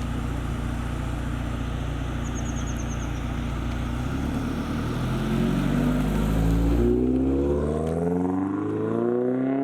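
2022 Toyota GR86's 2.4-litre flat-four engine running steadily, then pulling up through the revs as the car accelerates, its pitch rising steadily from about halfway through.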